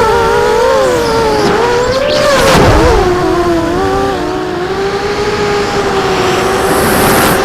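Quadcopter drone's electric motors and propellers whining steadily in several close pitches that drift up and down together as the rotors change speed.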